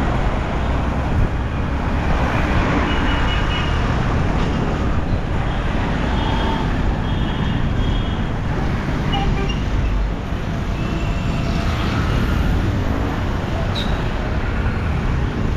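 Road traffic heard from a moving motorbike: a steady rush of engine and traffic noise, with a few brief high tones at times.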